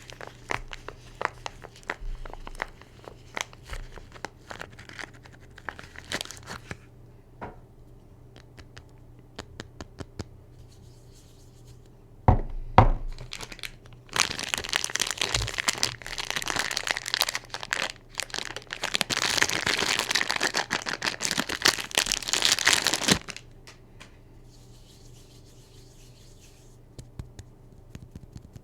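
Soap packaging being unwrapped by hand: wrapper crinkling and tearing. Scattered crackles at first, a single knock partway through, then a long stretch of dense crinkling and tearing before it goes quiet.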